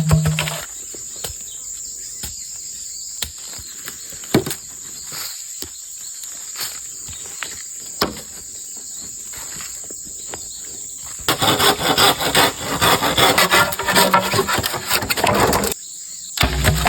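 Steady high-pitched drone of forest insects, with scattered sharp clicks and knocks. About two-thirds of the way through, a few seconds of dense rustling and crackling come in over it.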